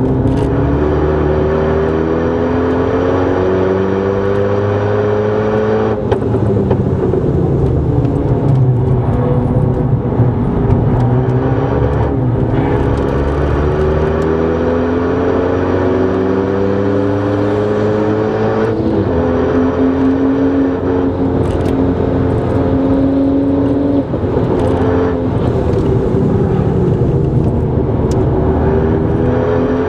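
Renault Mégane R26's turbocharged 2.0-litre four-cylinder engine, heard from inside the cabin while driven hard on track. Its pitch climbs steadily under acceleration and falls back abruptly at each shift or lift, four times over, then climbs again.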